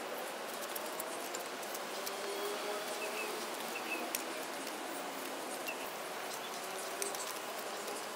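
Outdoor background hiss with faint, scattered small bird chirps and a few light clicks.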